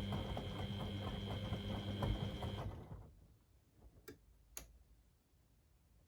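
Beko WMD 46160 washing machine's drum motor running with a steady whine and low hum and regular ticking, then stopping about two and a half seconds in; two short clicks follow about half a second apart.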